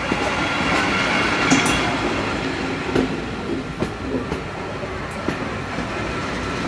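Narrow-gauge train rolling along the track: a steady rumble with occasional clicks from the wheels passing over rail joints.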